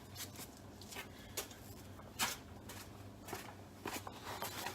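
Scattered light clicks, taps and rustles of someone moving about and handling small parts and tools, over a steady low hum; the sharpest click comes about two seconds in.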